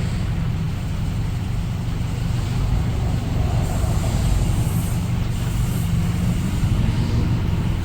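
Flatbed tow truck's engine running steadily, with a brief high hiss about four to six seconds in.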